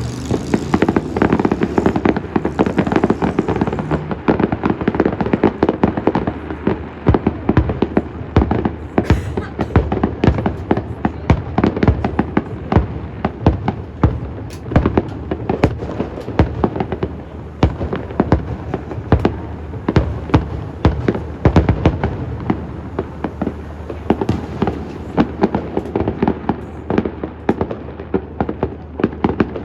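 Aerial fireworks going off in a dense, continuous barrage of bangs and crackles, several each second, with deeper booms among sharp cracks.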